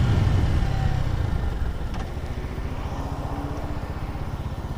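Lifan KP Mini 150's small single-cylinder engine running under way, its low pulsing easing in loudness over the first two seconds and then holding steady.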